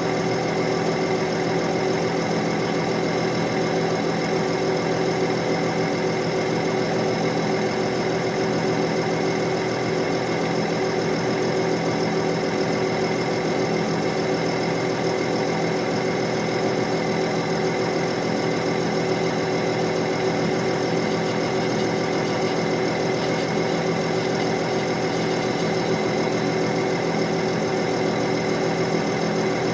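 Diesel engine of a CAT 312D excavator running at a steady speed, holding one even pitch throughout.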